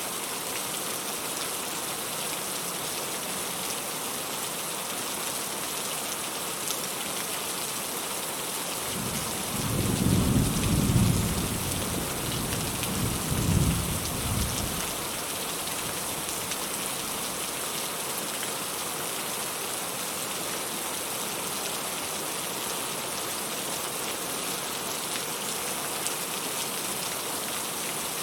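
Steady rain falling, with a roll of thunder rumbling low for about six seconds near the middle, swelling twice before it fades.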